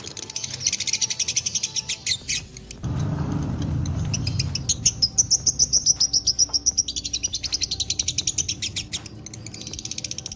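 Lovebird chattering in long, fast, unbroken trills, the 'ngekek panjang' that fanciers prize. About three seconds in, a low rushing noise comes in under it for a second or two.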